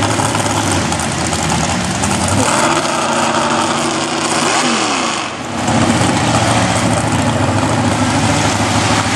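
Mud-bog truck engine running loud, rising in pitch as it revs about two and a half to five seconds in, dipping briefly just after five seconds, then running steady again.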